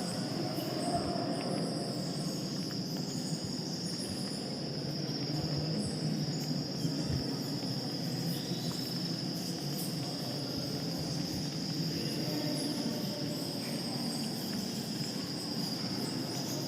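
Steady, high-pitched insect trilling, like crickets, running unbroken over a low rumble of background noise.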